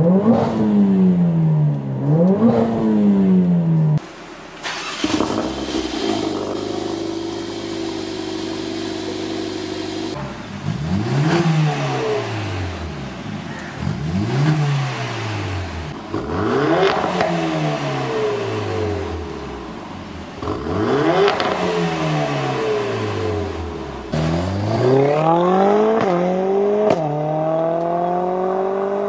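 Mercedes-AMG A45 S W177's turbocharged 2.0-litre four-cylinder running through an Armytrix valvetronic exhaust, revved again and again. Each blip climbs in pitch and falls back to a steady idle, with a quick run of several revs in a row through the middle.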